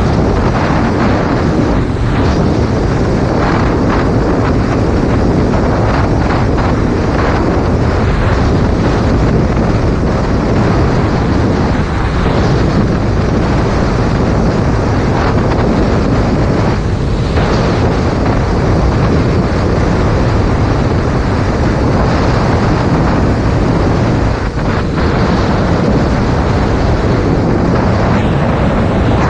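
Loud, steady wind noise buffeting a GoPro Hero 5 Black's microphone on a Yamaha MT-07 motorcycle riding at speed, drowning out the engine.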